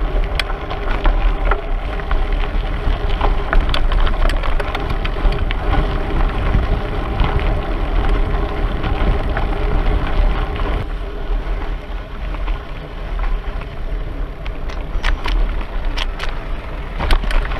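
Bicycle riding noise: wind rumbling on the microphone, with a steady rattle of many small clicks and knocks from the bike and its tyres over the ground.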